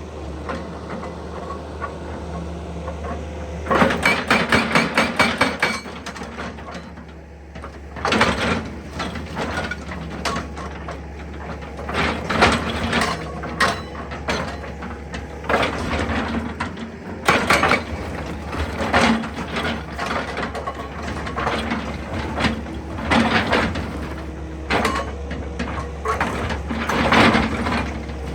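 Excavator running with a steady engine hum, broken by bursts of rapid repeated knocking and clatter, the first a run of about six knocks a second, from its hammering attachment working on rock.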